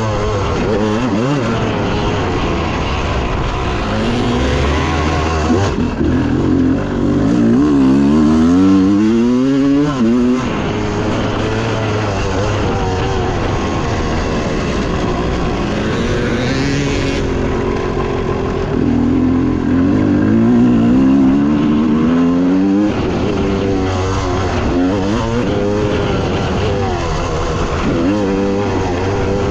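Motocross dirt bike engines revving hard, the pitch climbing repeatedly and then dropping as the throttle is opened and shut and the bikes shift through the gears.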